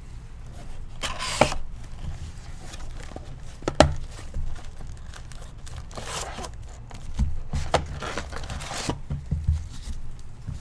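Foil trading-card pack wrappers being torn open and crinkled, in several separate rustling tears, with a sharp tap a little under four seconds in.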